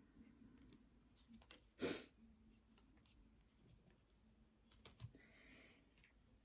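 Near silence: quiet room tone, broken by one short sound about two seconds in and a few faint clicks with a soft hiss around five seconds in.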